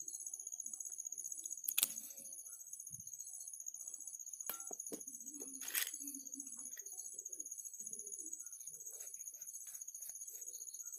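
Two sharp clicks about four seconds apart, with soft scattered knocks between them, over a faint steady high-pitched whine.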